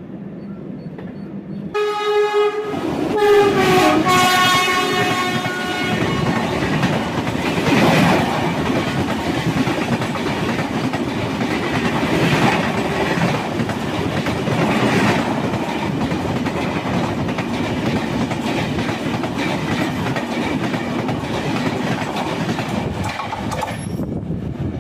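A passing train sounds its horn, which starts suddenly about two seconds in and drops in pitch as it goes by. A long, steady rush and rattle of its coaches going past follows.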